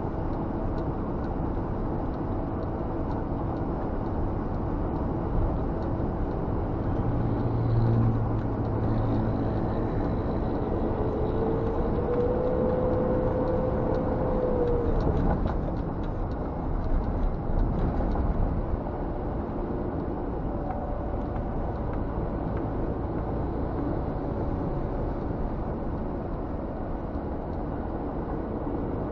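Scania G460 truck's diesel engine running on the road, heard from inside the cab with steady road and tyre noise; a tone rises about eleven seconds in and holds for a few seconds before fading.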